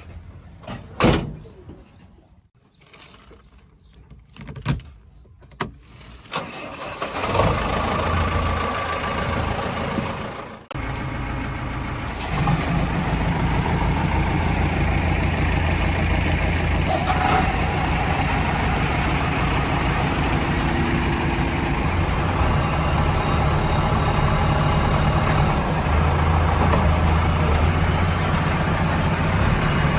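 A few scattered knocks and clicks, then a heavy vehicle's diesel engine starts up about seven seconds in and settles into a steady idle.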